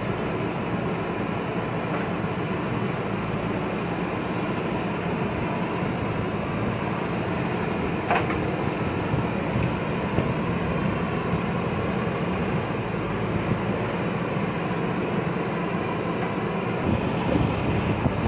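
JCB backhoe loader's diesel engine running steadily while it works, with a brief higher-pitched sound about eight seconds in and a few small knocks near the end.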